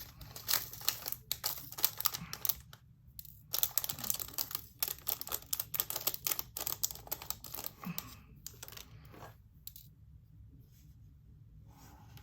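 Tiny resin diamond-painting drills pouring and clattering into a plastic storage container, a dense patter of clicks that thins out and dies away about nine seconds in, with a few scattered clicks after.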